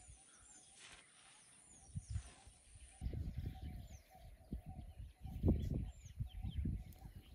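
Wild birds calling, a short descending whistle repeated about twice a second. From about three seconds in, uneven low rumbling noise comes and goes over the calls, loudest a little past the middle.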